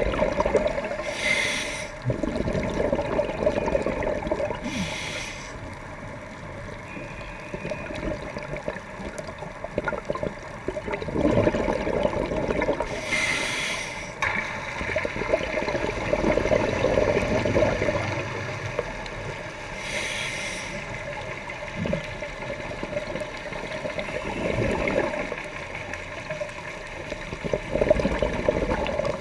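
Scuba diver breathing through a regulator underwater: a short hiss of each inhalation, then a long gurgling rush of exhaled bubbles, over several breaths.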